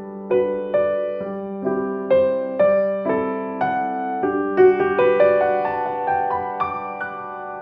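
Background music: a gentle, slow solo piano melody, its notes struck one after another and left to ring.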